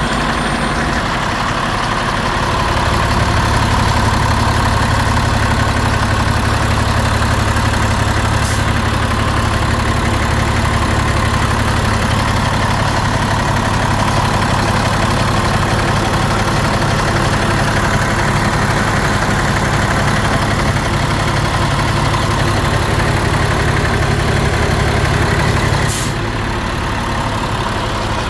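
2017 Mack Granite garbage truck's diesel engine idling steadily. About two seconds in it picks up and runs louder, then drops back to a lower idle near the end.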